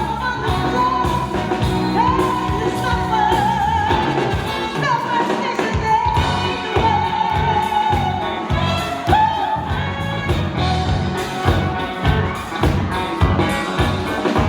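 A woman singing a melody with long held notes and vibrato over backing music with a steady low beat.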